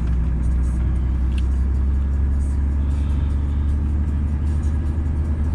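Truck's engine and road noise droning steadily, heard from inside the cab while driving.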